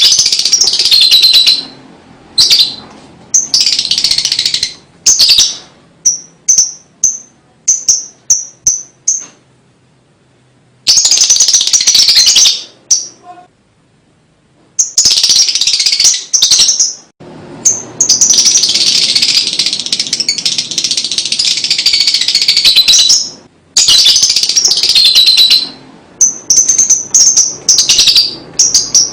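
Lovebird chattering in loud bursts of rapid, high chirps. There are runs of short repeated notes and a long unbroken chatter of several seconds past the middle: the extended chatter, or ngekek, of a lovebird in full song.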